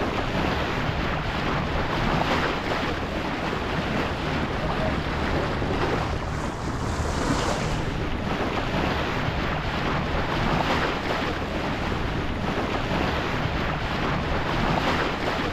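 Wind buffeting the microphone over water rushing and splashing along the hull of a sailboat under way, steady throughout, with a faint low hum underneath.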